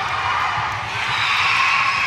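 Gym crowd noise: many overlapping voices, with young players shouting and cheering.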